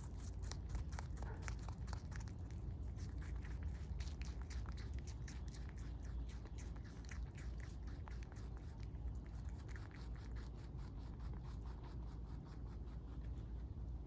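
A rabbit chewing close by: rapid crisp crunching clicks, several a second, thinning out near the end, over a low steady rumble.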